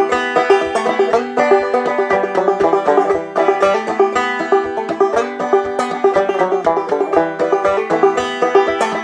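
Banjo played clawhammer style: a steady, evenly paced run of plucked notes ringing over a held note, with no singing.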